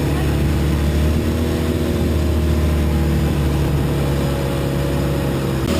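Boat engine running steadily at speed, a loud constant drone.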